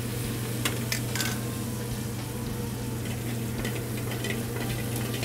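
Chicken pieces and mushrooms sizzling in aluminium sauté pans over gas burners, with a few sharp clicks of metal tongs against the pan about a second in, over a steady low hum.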